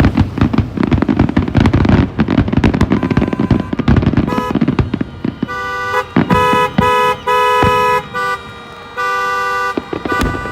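Fireworks crackling and popping in rapid bursts, then about halfway through several car horns honking in long and short blasts.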